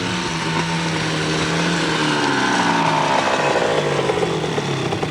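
Dirt bike engine running with the revs rising and falling, dropping away near the end.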